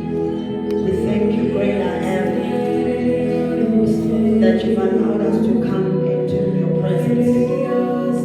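Worship music: singing voices over long held chords.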